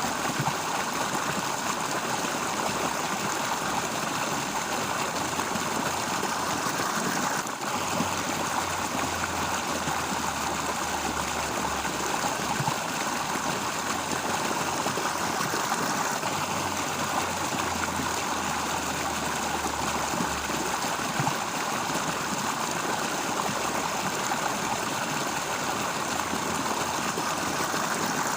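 Steady rushing of flowing water in a stream, an even unbroken wash of sound.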